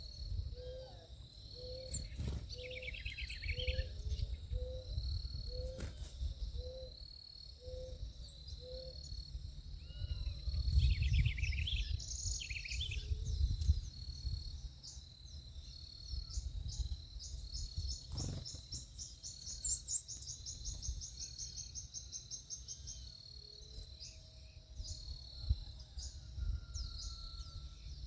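Backyard birds calling and chirping, with a steady insect-like trill. A low, even note repeats about twice a second for the first nine seconds, and a low rumble rises around the middle.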